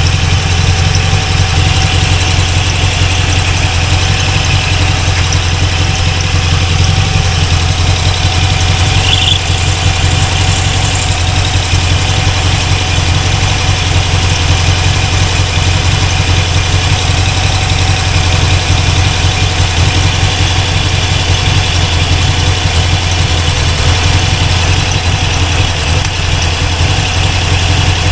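Chevrolet 350 small-block V8 in a C4 Corvette idling steadily with no rod knock, running rich.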